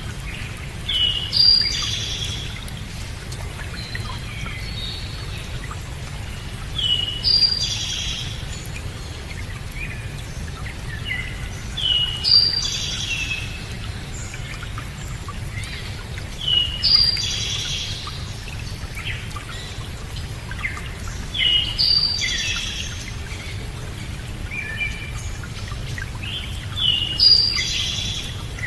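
A songbird singing the same short, chirpy phrase over and over, about once every five seconds, over a steady low rush of running water.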